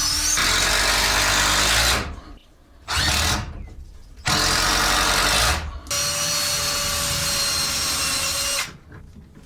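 Power drill driving a screw into wood in four runs, the longest about three seconds, with short pauses between.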